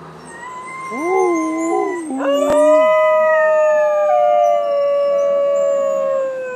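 New Guinea singing dogs howling together in overlapping long pitched howls: one wavering, one held high and steady. A strong howl joins about two seconds in and slides slowly down until it stops near the end. A sharp click sounds once just after it starts.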